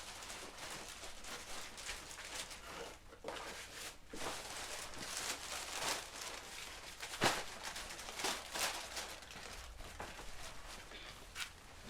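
Rustling and handling noises with scattered knocks, the sharpest about seven seconds in.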